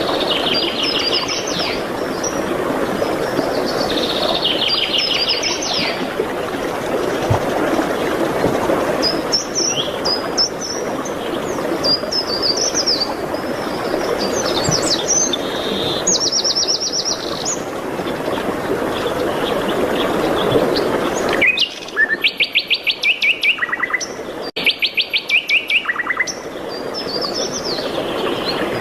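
Songbirds singing over a steady rushing background: fast trills and high chirps come every few seconds. About two-thirds of the way through, the background drops away and a loud rapid trill sounds twice before the rushing returns.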